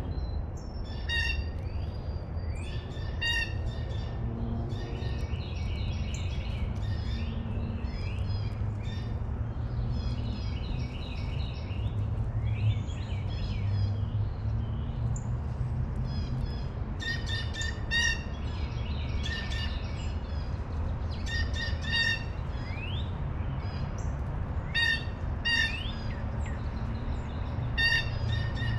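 Small birds chirping and calling again and again, short chirps and quick rising notes, over a steady low rumble.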